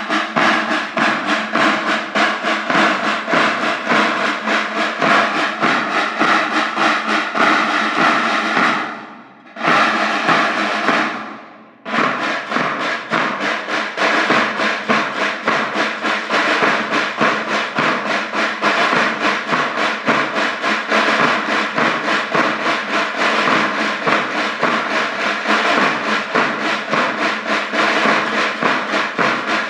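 School band playing a rapid drumbeat with wind instruments holding notes over it. The sound fades out twice, about nine and eleven seconds in, and cuts back in abruptly each time.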